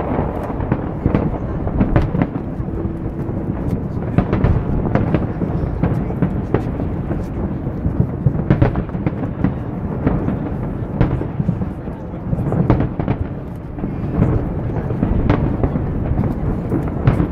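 New Year fireworks display: a rapid, irregular string of sharp bangs and crackles over a steady low rumble of further bursts.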